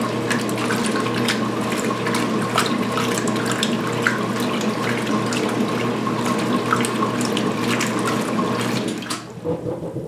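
2016 Speed Queen top-load washer agitating at high speed during the rinse: a steady motor hum with water and towels sloshing in the tub. The agitation stops abruptly near the end.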